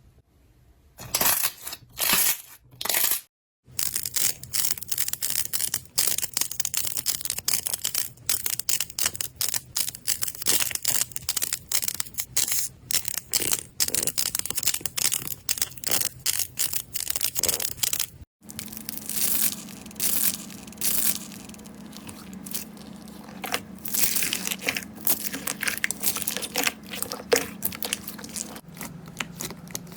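Slime being squeezed and pressed by hand, giving dense crackling and popping. The texture changes abruptly at clip cuts about 3 seconds in and about 18 seconds in.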